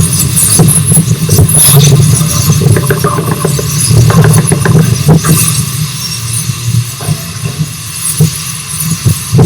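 Rx-class steam train running along the track: a steady low rumble with irregular clanks and knocks, easing a little for a few seconds in the second half.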